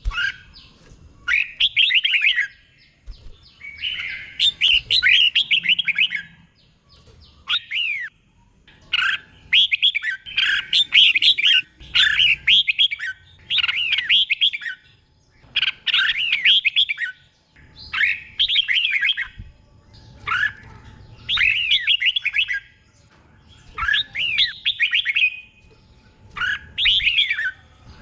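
Red-whiskered bulbul singing: short, quick, warbling whistled phrases, one after another every second or two.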